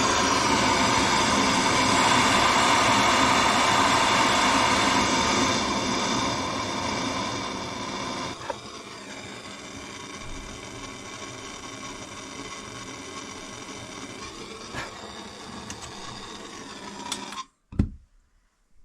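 A gas blowtorch burning steadily while it heats an oil pipe's soldered joint to free the nipple. It gets quieter about 8 s in and is shut off abruptly near the end.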